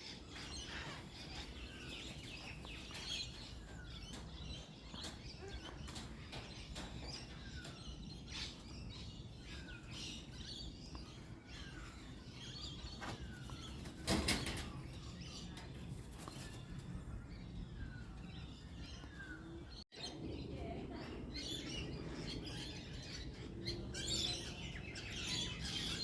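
Birds chirping and calling, with many short downward-sliding chirps and one loud, harsh burst about fourteen seconds in. The sound drops out for an instant near twenty seconds, and the chirping grows busier near the end.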